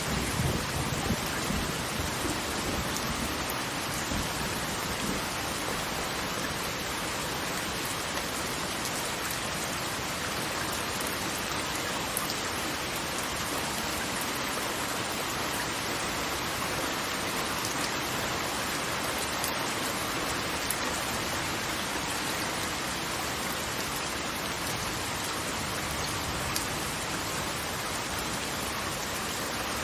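Steady, even rush of falling water, unchanging throughout. A low rumble dies away in the first second.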